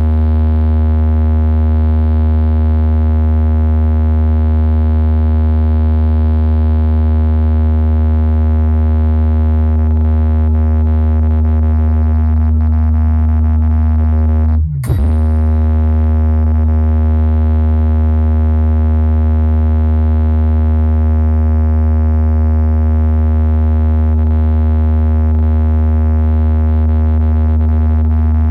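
Heavy synthesized bass tone from a DJ sound-check track, held steady with a stack of overtones. About 15 seconds in it drops out briefly and comes back with a quick pitch glide.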